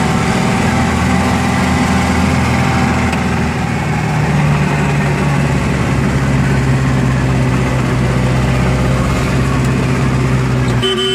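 A vehicle's engine running steadily while driving uphill on a winding road, its note shifting about four seconds in. A vehicle horn toots right at the end.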